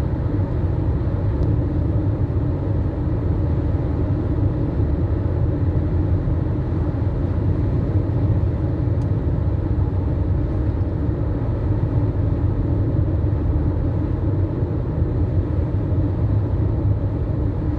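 Steady running and road rumble of a 2017 Mitsubishi Outlander's 2.0-litre engine while driving. The owner reports that the engine revs float at speeds above 80 km/h, with no error codes.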